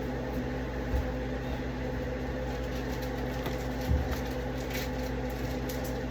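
A kitchen appliance running with a steady electrical hum, under two dull low thumps about one second and four seconds in.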